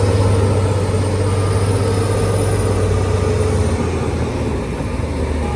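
Heavy diesel engine of earthmoving machinery running hard, with a high whine over it; about two-thirds of the way through the engine eases to a lower pitch and the whine fades.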